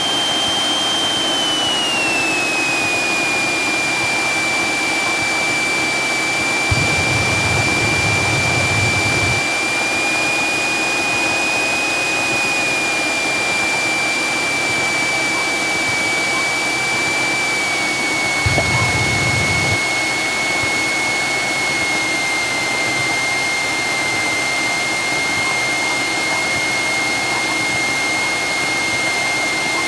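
Cessna 172 engine and propeller droning steadily in the cabin, with a high whine that drops in pitch about two seconds in as engine speed comes down, then keeps sinking slowly. Two brief low rumbles come partway through.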